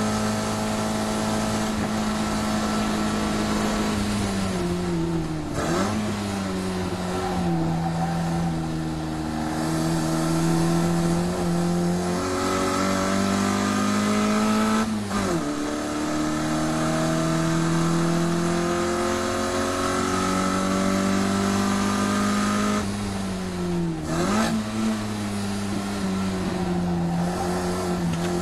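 Race-tuned Mini Cooper's 1380cc four-cylinder engine, breathing through a Weber 45 carburettor, running hard at high revs. The pitch climbs and sags under load, and it dips sharply and recovers three times, about 6, 15 and 24 seconds in.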